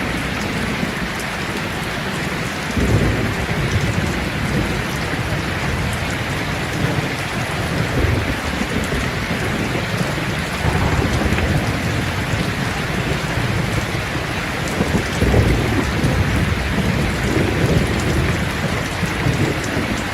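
Steady rain, with low rolling rumbles of thunder swelling up several times.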